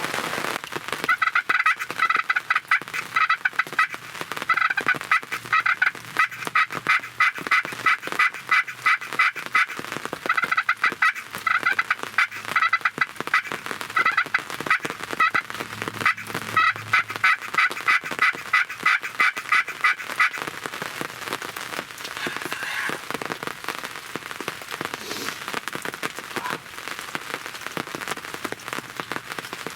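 Turkey yelping: long runs of short, evenly spaced notes, about two or three a second, broken by brief pauses, stopping about twenty seconds in. Rain patters steadily throughout.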